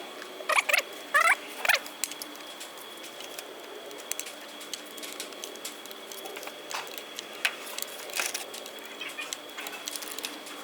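A dog whining in short, high squeals, three of them in the first two seconds, followed by scattered light clicks and taps.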